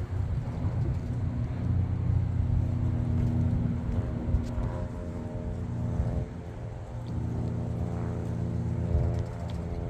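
Cessna 172 single-engine propeller plane flying past, its engine and propeller giving a steady drone of several pitches that swells about halfway through and again near the end.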